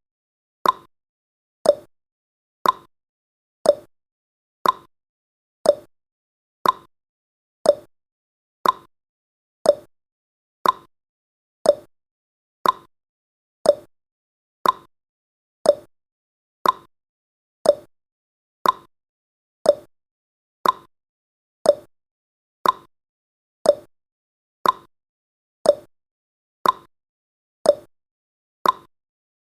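Clock-ticking sound effect from a countdown timer, one short, sharp tick each second at a steady pace.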